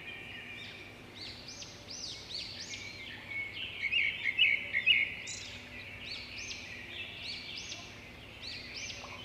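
Birds chirping and singing, with repeated calls overlapping over a faint steady background noise. A louder run of quick chirps comes about four seconds in.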